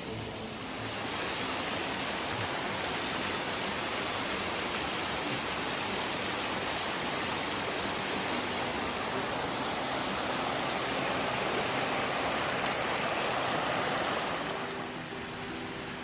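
Creek water rushing steadily over rocks, an even hiss of flowing water that swells about a second in and falls back a couple of seconds before the end.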